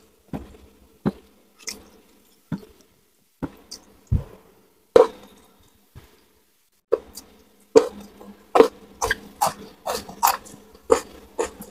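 Close-up eating sounds of a person chewing crispy fried gourami with rice and raw vegetables: irregular crunches and wet mouth smacks, sparse at first and coming faster and louder in the second half.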